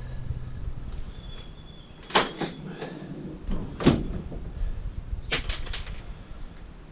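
Scrap metal being handled: three sharp knocks about a second and a half apart, over a low hum that stops about a second in.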